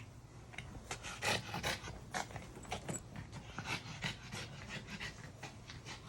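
Dog panting in quick, short breaths, several a second, the heavy panting of a tired dog.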